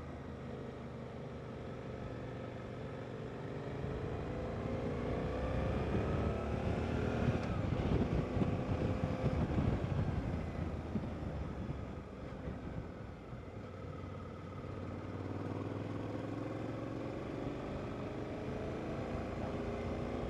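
Motorcycle engine pulling under acceleration, its pitch rising over several seconds, dropping abruptly about seven seconds in, then climbing again from about fifteen seconds in, over a low rumble of road and wind noise.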